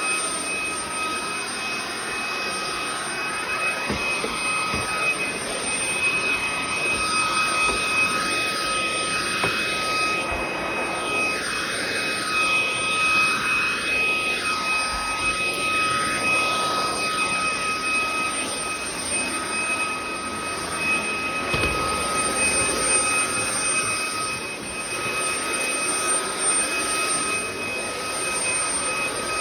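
Bissell ICONpet cordless stick vacuum running: a steady high motor whine over a rush of air, the airflow noise swelling and easing now and then.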